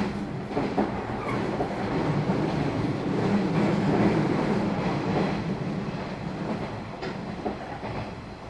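Running noise of a JR 113 series electric train heard from inside the passenger cabin: a steady rumble of wheels on rail. It builds to its loudest about four seconds in and then eases off. Sharp clicks from the wheels crossing rail joints come at the start and again about seven seconds in.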